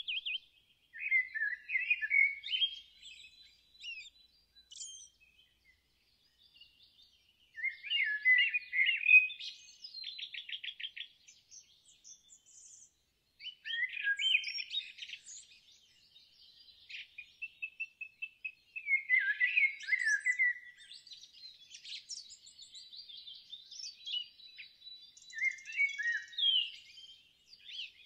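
Wild birds singing: separate warbling song phrases a few seconds apart, one with a quick run of evenly repeated notes, and a faint thin high note held in the background.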